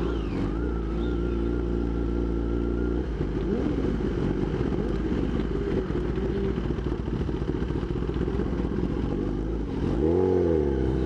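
Motorcycle engine running under way, holding a steady pitch for a few seconds, then wavering, and revving up and back down about ten seconds in.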